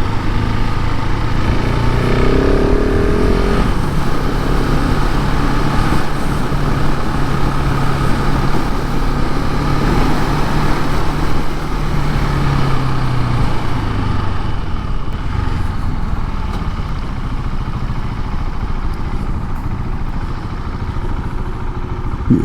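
KTM 690 SMC R single-cylinder engine running through its stock exhaust while riding, holding a steady pitch. About twelve seconds in the pitch slides down as it slows, then it runs lower and a little quieter to the end.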